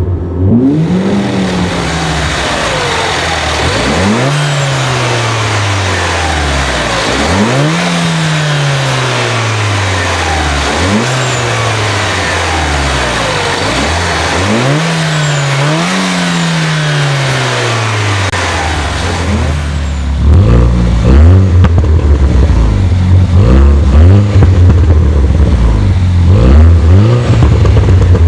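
Mini Cooper S John Cooper Works Coupe's turbocharged 1.6-litre four-cylinder revved repeatedly at standstill: each rev climbs quickly and falls back slowly, about six times. About twenty seconds in the sound turns louder, with a run of quicker, shorter blips.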